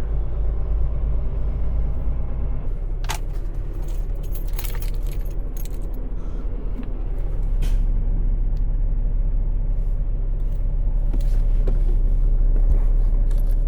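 Semi truck's diesel engine running steadily, its low note shifting about two and a half seconds in, with several sharp metallic clanks and rattles.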